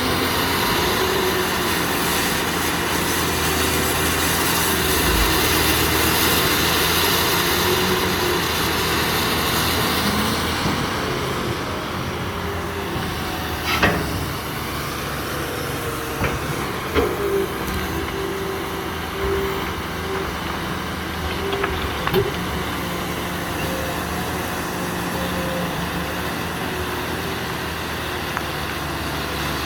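Cat 330B excavator running, its diesel engine and hydraulics working with a whine that wavers in pitch. A hiss stops about a third of the way through, and a few sharp knocks follow later on.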